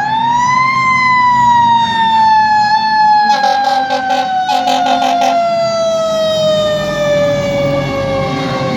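Fire truck siren winding up over the first second, then coasting slowly down in pitch: the spin-down of a mechanical siren. In the middle come two blasts of the truck's air horn, over the rumble of the truck's engine.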